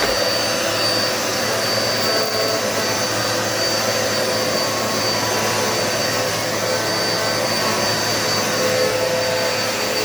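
Dirt Devil Multi-Surface bagless upright vacuum running steadily at full speed, a high whine over the motor's rush.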